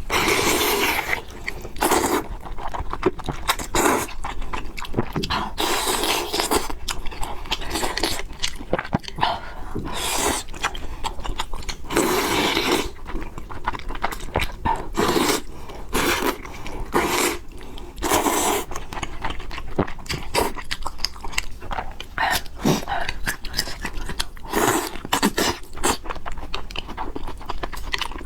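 A person eating fried noodles with pork: chewing and biting, with a run of short noisy eating sounds every second or so.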